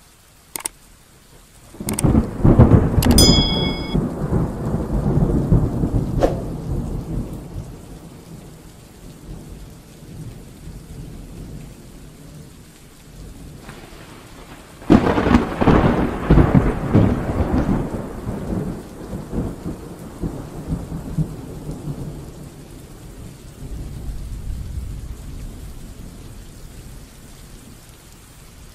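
Rolling thunder over steady rain: a long rumble starts about two seconds in, and a second one comes about halfway through, each fading slowly. Near the start there are a few sharp clicks and a short bell-like chime.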